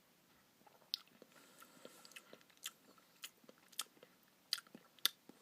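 Faint sounds of someone eating a mouthful of Oreo Blizzard ice cream: chewing, with about a dozen small sharp clicks and crunches scattered irregularly from about a second in.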